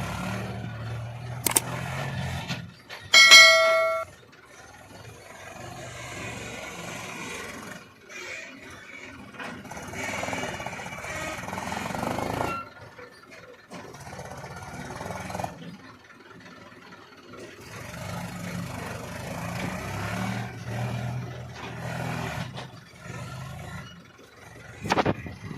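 Tractor and loader engines running at work, with one short, loud horn blast about three seconds in and a few sharp clicks.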